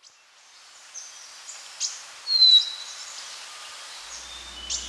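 Birds chirping and whistling over a faint outdoor hiss that fades in at the start. The loudest call is a thin whistle sliding slightly down in pitch about two seconds in, and a low hum comes in near the end.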